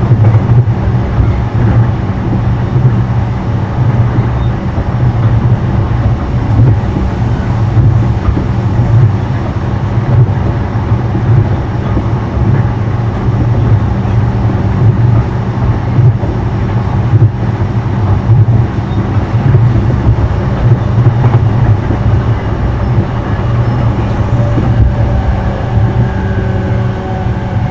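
Running noise inside the motor car of a JR East E233-0 series electric train with Mitsubishi IGBT VVVF drive: a loud, steady rumble and hum of the train at speed. Faint rising whining tones come in near the end.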